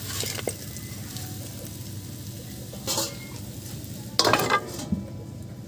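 Pork curry sizzling steadily in a black iron wok, with two short clatters of cookware about three and four seconds in.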